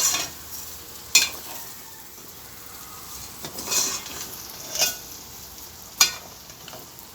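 Dry rice being stirred in a hot pot with sautéed onion and bacon, frying with a steady sizzle before any broth is added. About five sharp scraping strokes against the pot break through the hiss.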